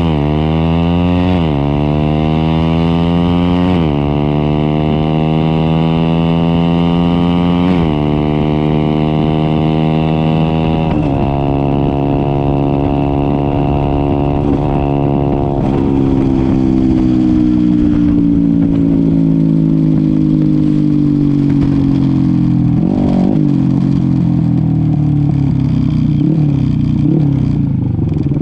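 Motorcycle engine accelerating hard through the gears on a drag run, its pitch climbing and dropping back at each upshift, five times over about fifteen seconds with the gaps growing longer. The pitch then falls steadily as the bike slows.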